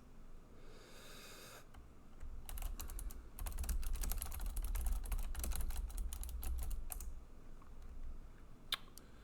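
Typing on a computer keyboard: a quick run of keystrokes from about two seconds in to about seven seconds in, then a few single keystrokes near the end.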